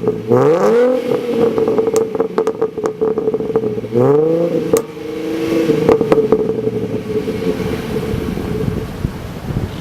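Engine revved twice in quick blips, the first right at the start and the second about four seconds in, each a fast rise in pitch before dropping back to a steady idle.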